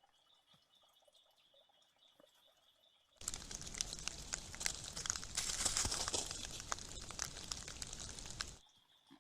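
A loud burst of rustling, crackling noise lasting about five seconds, starting and stopping abruptly, over a faint steady high-pitched pulsing trill.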